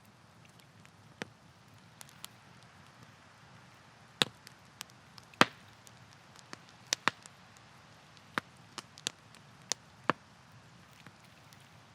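Wood campfire crackling: more than a dozen sharp pops at irregular intervals over a faint steady hiss, the two loudest a little past a third of the way in and near halfway.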